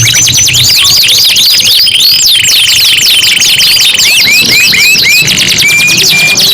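Canaries singing together, their songs overlapping in a dense stream of quick sweeping chirps and whistles. A fast rolling trill comes in about two seconds in and lasts a little under two seconds.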